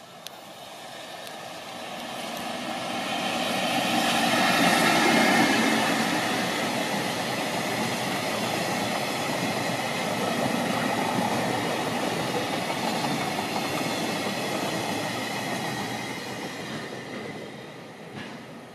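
Freight train of tank wagons hauled by an EF65 electric locomotive passing close by. The sound builds to a peak as the locomotive goes past about five seconds in, then holds as a long steady rumble of the tank wagons' wheels on the rails, and fades away near the end as the last cars pass.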